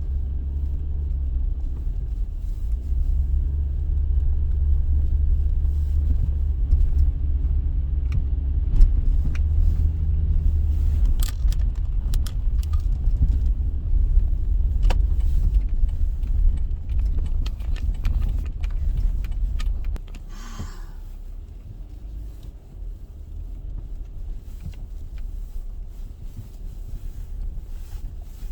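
Low, steady road rumble of a moving car, heard from inside, with small rattling clicks; the rumble drops off sharply about two-thirds of the way through, as when the car slows or stops, followed by a brief high squeak.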